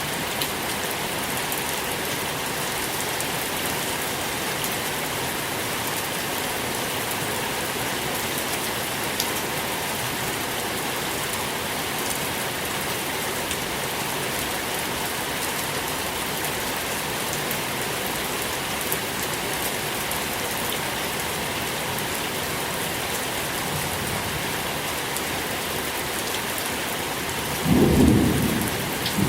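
Steady rain falling, an even hiss with scattered drop ticks. Near the end a short, low rumble of thunder swells up and dies away.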